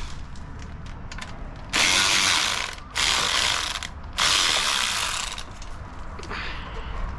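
Ratchet wrench ratcheting in three quick runs of about a second each, the pawl clicking fast as fasteners are worked loose.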